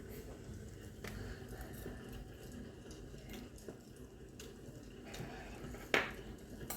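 Quiet eating sounds: soft scattered clicks and small mouth and utensil noises while snacks are eaten, with one sharper click about six seconds in.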